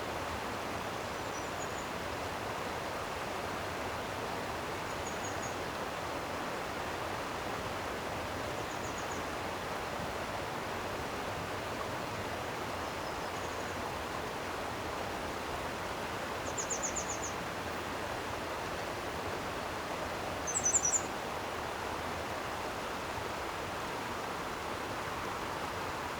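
Steady rush of flowing stream water, with a small bird giving brief high chirps now and then, loudest as a quick trill about two-thirds of the way in.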